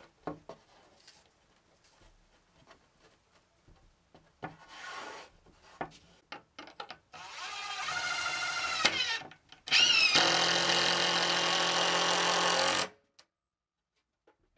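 Power drill running in short runs: a brief spin, then a longer run that climbs in pitch, then a louder steady run that stops suddenly, as in driving screws into wood. A few light knocks come first.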